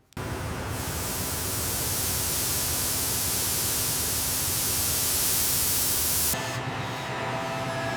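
Steady loud hissing noise that starts suddenly. Its high part cuts off about six seconds in, leaving a lower rush with faint steady tones.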